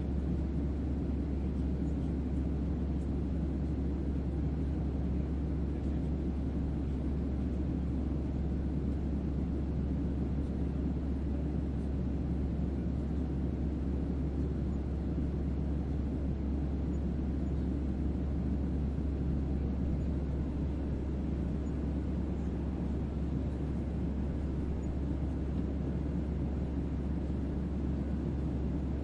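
Steady spaceship-ambience white noise with deep bass: a constant low hum under an even, unchanging rumble.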